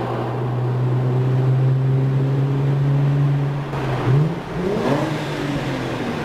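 Car engine running with a steady drone at cruising speed, then revving up about four seconds in, its pitch climbing for about a second before easing back down.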